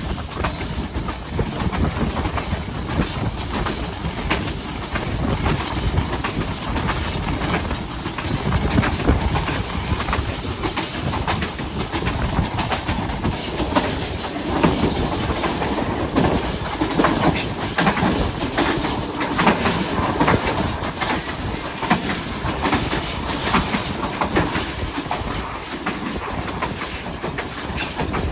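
Passenger train rolling along the track: a steady rumble with many short clicks and knocks from the wheels over the rails.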